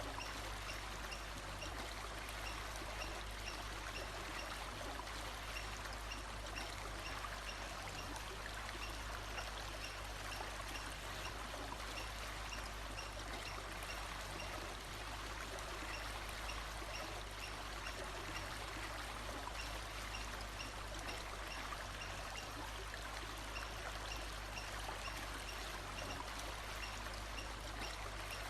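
Steady rush of a flowing stream, with a faint high chirp repeating evenly about once a second.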